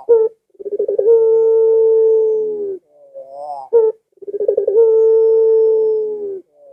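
Puter (domestic ringneck dove) of the long-cooing pelung type giving its drawn-out coo twice: a few short stuttering notes, then a long steady hoot of about two seconds that sags in pitch at the end.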